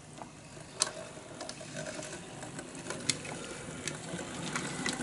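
OO gauge model locomotive starting off under power: its small electric motor and gears run with a mechanical whirr that grows steadily louder, with a few sharp clicks.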